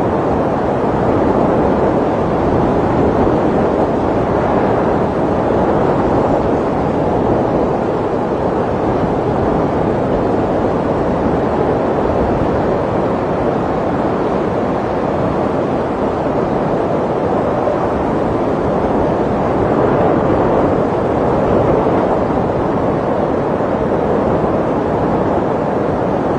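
Snowstorm wind blowing in a steady, dense rush that swells a little now and then.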